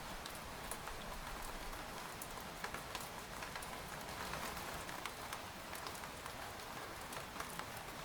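Steady rain falling on a tent: an even hiss with many separate drops striking the fabric at irregular moments.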